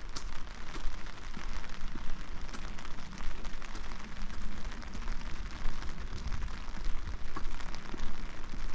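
Steady rain falling: an even hiss with many sharp ticks of single drops landing close by.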